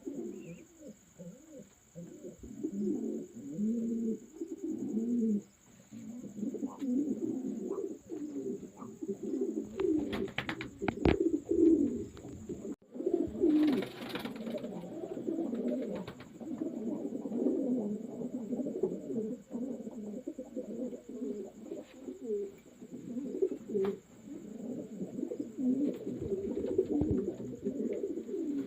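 Many racing pigeons cooing at once, their low calls overlapping continuously. A few sharp clicks and a brief noisy burst come about halfway through.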